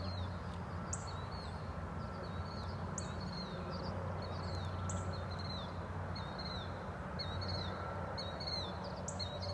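Birds calling outdoors: short high chirps repeat about twice a second, with a sharper high note about once a second, over a steady low rumble.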